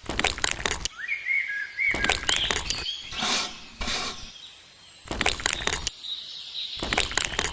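Birds chirping, interrupted by about six short bursts of harsh noise, each lasting up to about a second.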